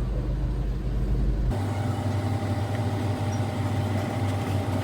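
Car engine running steadily, heard from inside the cabin as a low hum. The hum changes character abruptly about a second and a half in.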